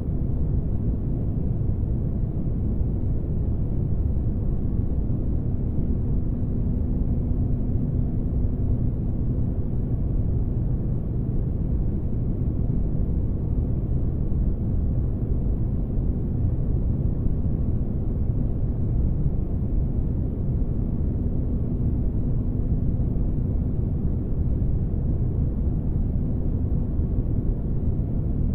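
Synthetic spaceship-interior ambience: a steady, deep rumbling noise with a faint constant hum, used as sleep white noise.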